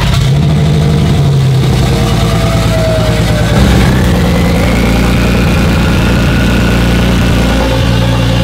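Single-turbo-converted BMW N54 3.0-litre inline-six running with no hood, its exhaust leaving through an open pipe straight off the turbo. There is a brief rise in revs about three and a half seconds in, and a faint whine climbs in pitch over a few seconds.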